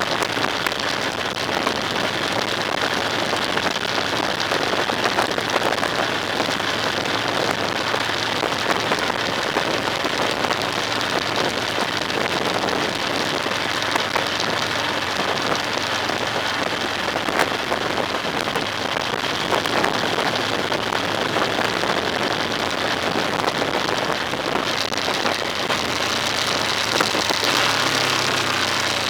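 Steady, dense crackling hiss with no clear tones in it, somewhat brighter near the end.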